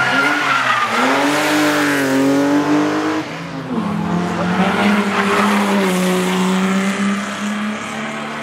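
Rally car engine driven hard past close by: the note climbs for about three seconds, drops sharply at a gear change, then holds a steadier pitch as the car pulls away.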